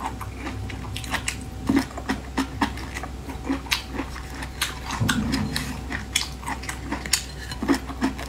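Close-up biting and chewing of boiled bamboo shoot: irregular crisp, fibrous crunches and wet smacks, busiest about five seconds in.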